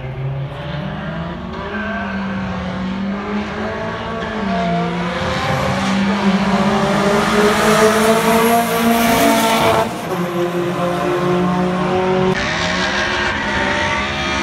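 Car engines accelerating hard down a drag strip, their pitch climbing and then dropping back at each gear change, growing louder toward a peak. The level falls suddenly about ten seconds in.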